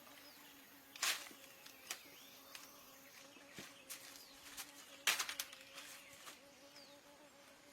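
A steady insect buzz, with a few faint short bird chirps and scattered sharp clicks or snaps. The loudest snaps come about a second in and about five seconds in.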